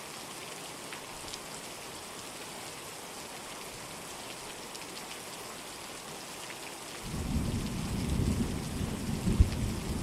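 Steady rain. About seven seconds in, a loud low rumble of thunder sets in, with a sharp crack near the end.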